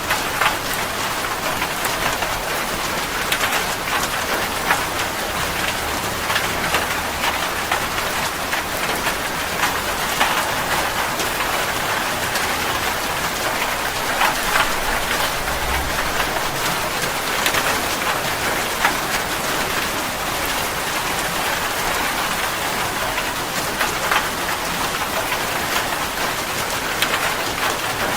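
Steady heavy rain falling on a surface, a dense even patter with many individual drops audible.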